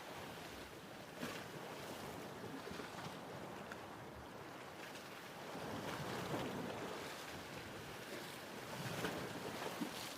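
Ocean waves washing in a steady hiss of surf, swelling a little about six seconds in and again about nine seconds in, with a few small splashes.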